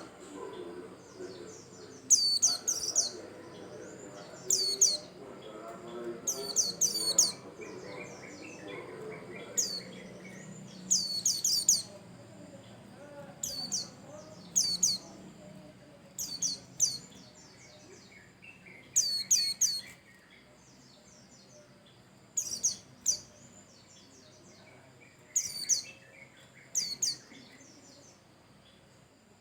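Javan grey-throated white-eye (opior jawa) singing: short bursts of two to four high, quick downward-sweeping chirps, repeated every couple of seconds.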